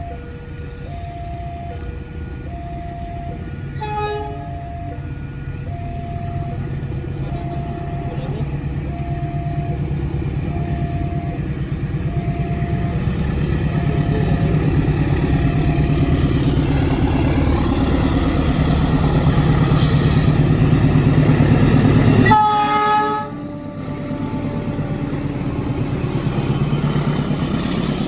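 Level crossing warning signal sounding two alternating tones as a train approaches, with a short horn about four seconds in. The train's rumble grows steadily louder, and a loud train horn sounds about 22 seconds in as it arrives and runs past.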